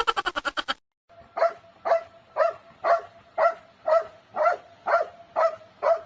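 A dog barking in a steady, even rhythm of about two barks a second, starting about a second in.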